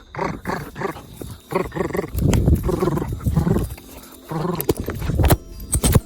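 Strong wind buffeting the microphone in gusts, a low rumble that swells to its loudest about two seconds in, with a couple of sharp knocks near the end.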